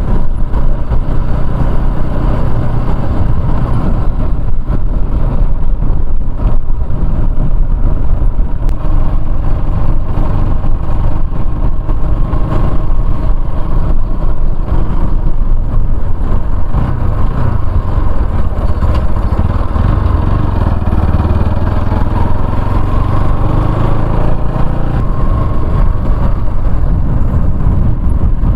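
Motorcycle engine running steadily while riding, its note drifting up and down with the throttle, over a constant loud low rush.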